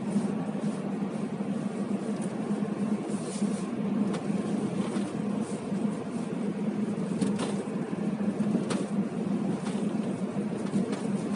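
Steady car interior noise: an idling engine and the heater fan running as an even hum, with a few faint clicks.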